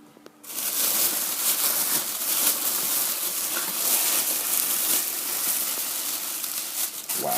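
Plastic packaging crinkling and rustling continuously as a football helmet is unwrapped, starting about half a second in.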